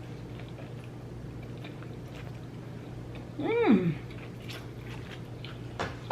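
Close-up chewing of a sandwich: soft, wet mouth clicks. About halfway through comes one short call that rises and then drops in pitch, and a sharp click comes at the very end.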